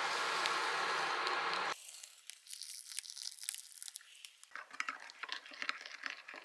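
A steady rushing noise cuts off suddenly about two seconds in. It is followed by the crinkling and tearing of packaging, heard as irregular sharp crackles.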